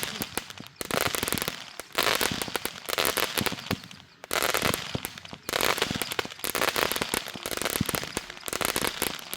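Backyard consumer fireworks going off in a dense run of rapid crackling bangs. The cracks come in several clustered bursts, with short lulls between them.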